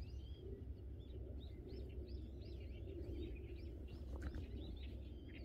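Small birds chirping faintly, a quick run of short rising-and-falling chirps, over a low steady background rumble.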